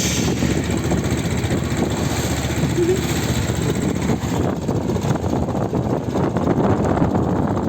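Small boat's engine running steadily under way.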